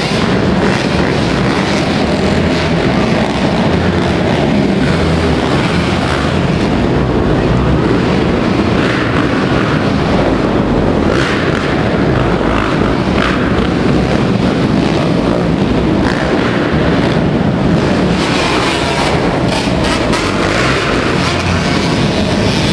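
Motocross dirt bike engines running, a loud continuous drone.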